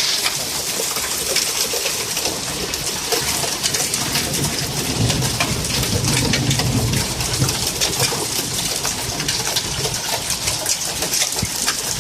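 Pea-sized hail and rain pelting down in a dense hiss, dotted with many sharp ticks of individual hailstones striking.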